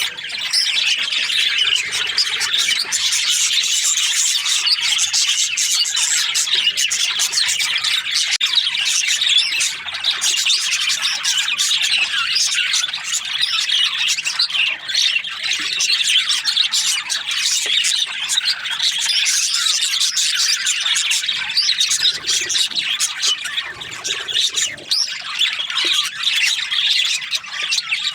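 A flock of budgerigars chattering and chirping without pause, many high calls overlapping one another.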